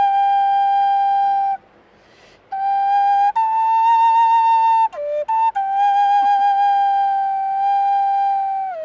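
Solo flute playing long held notes. It breaks for a breath about two seconds in, steps up to a higher note and back down, and slides down to a lower note near the end.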